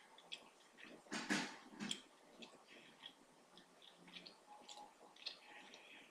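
Faint chewing mouth sounds: soft wet clicks and small smacks scattered throughout, with one louder rush of noise about a second in.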